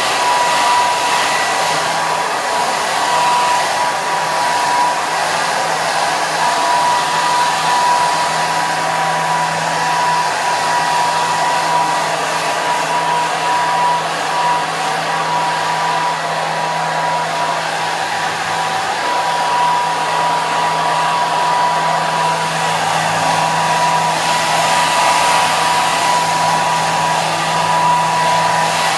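Handheld hair dryer running steadily: a constant rush of blown air with a high motor whine over it and a low hum beneath.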